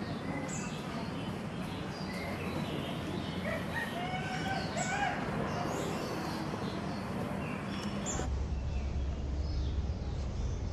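Outdoor birdsong: many short chirps, with a rooster crowing in the middle. About eight seconds in the birdsong thins and a steady low rumble takes over.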